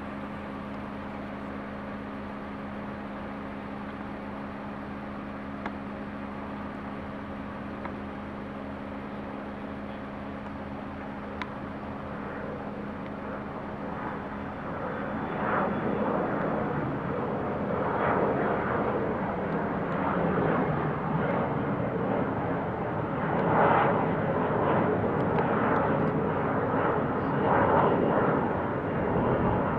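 Jet airliner engines on a departing plane: a steady hum with held tones at first, then from about halfway the engine noise grows much louder and rougher, swelling and fluctuating as the jet powers up and goes by.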